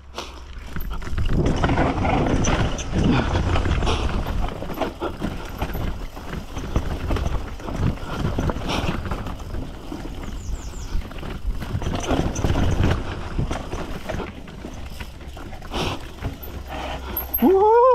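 Mountain bike rolling fast down a rough dirt trail: tyres over dirt and rocks with the chain and frame rattling, under an uneven rumble.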